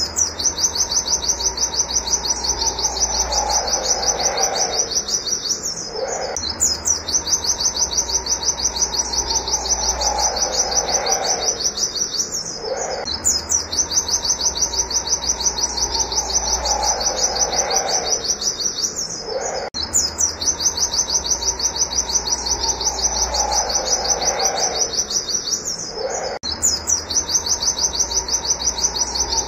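White-eye (pleci) singing its rapid 'wit wit' song: long trains of fast, high, repeated chattering notes, each run lasting several seconds, with a brief break about every six seconds.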